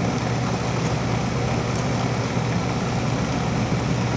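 2005 Amana 4-ton heat pump running in its defrost cycle: a steady compressor hum with an even whooshing haze over it.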